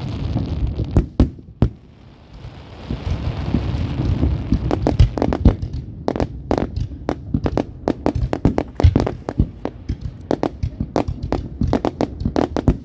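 Fireworks going off: a building hiss broken by a few sharp bangs, then a second hiss that breaks about halfway in into a long run of rapid crackling pops, several a second.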